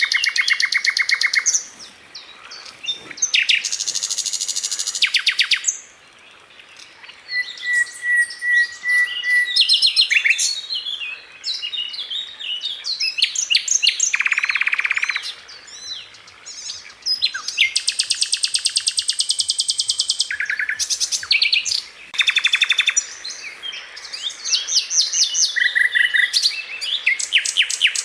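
Sikatan londo flycatcher singing a fast, packed run of high buzzy trills and rapid-fire chattering notes in bursts of a second or two with short gaps, including one short clear whistled phrase about eight seconds in.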